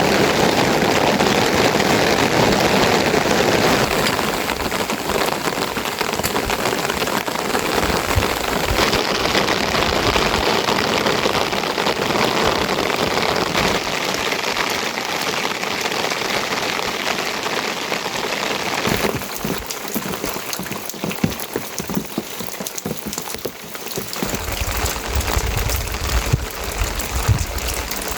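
Steady rain falling and pattering on surfaces, changing in loudness and texture several times. In the latter part, individual drops tick more distinctly. A low rumble joins the rain for a few seconds near the end.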